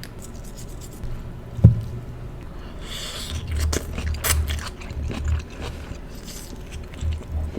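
Close-miked chewing of ribeye steak and onions: a sharp click about a second and a half in, then a run of rhythmic wet chewing thumps with crackly bits from about three seconds in.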